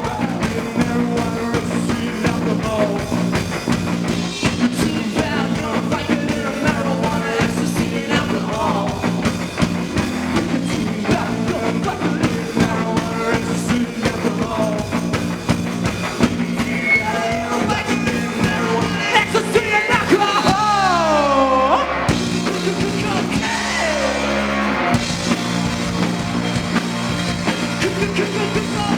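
Live rock band playing a song with a lead vocal over it.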